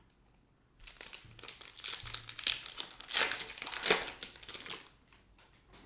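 Crinkling and tearing of a foil trading-card pack wrapper as it is ripped open and handled, a dense crackle lasting about four seconds.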